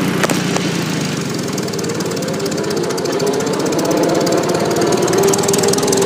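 Farmall Super A tractor's four-cylinder gasoline engine running steadily with the tractor in fourth gear, the pitch rising slightly over the first few seconds, then holding. Only normal gear noise comes from the transmission, with no rumbling or howling from bad bearings.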